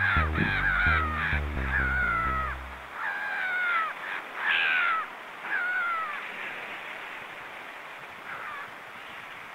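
A bird calling again and again, a series of falling cries each about half a second long, over music with a low stepping bass line that stops about three seconds in. The calls thin out and grow fainter after about six seconds.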